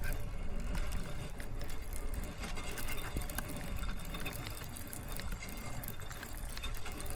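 Fishing reel being wound in with a rapid mechanical whirring and ticking, the line being retrieved with a small fish hooked.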